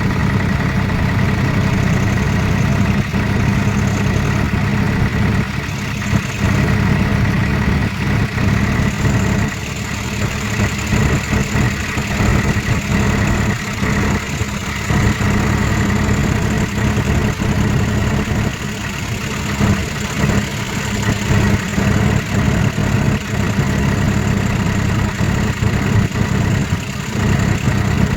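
Swaraj 4×4 tractor's diesel engine running steadily, with irregular rattles and knocks over it.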